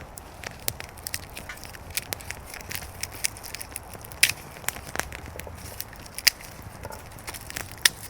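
Dry wood crackling and snapping: irregular sharp cracks and pops, with a few louder snaps about four, six and nearly eight seconds in.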